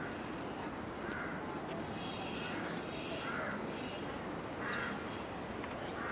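A bird calling repeatedly, about six short harsh calls roughly a second apart, over a steady rushing background noise.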